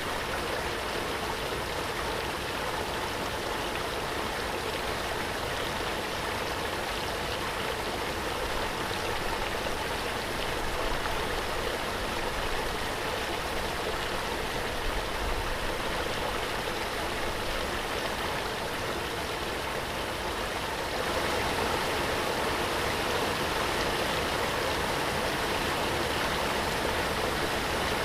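Waterfall: a steady rush of falling, splashing water, slightly louder about three-quarters of the way through.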